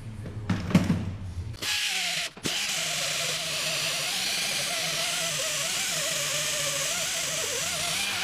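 A few metal clinks, then an electric drill-type power tool starts and runs steadily, its motor pitch wavering as the load changes. It stops for a moment about two seconds in, then carries on.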